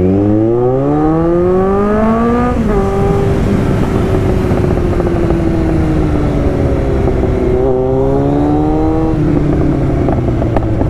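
Kawasaki Z900 motorcycle's inline-four engine accelerating hard, its pitch climbing for about two and a half seconds before a sudden drop at an upshift, then holding, climbing again and shifting once more near the end, after which it winds down.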